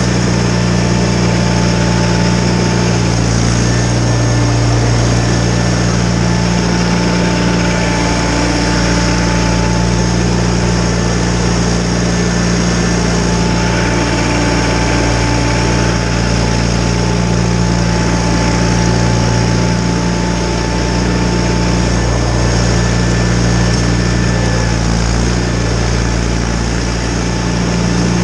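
John Deere 318 garden tractor's engine running steadily, driving a Model 49 snowblower.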